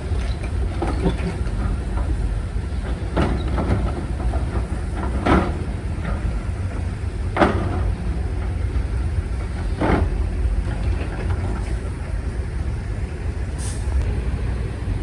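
Heavy earthmoving machinery running with a steady low diesel rumble. Five sharp knocks come roughly every two seconds through the first ten seconds.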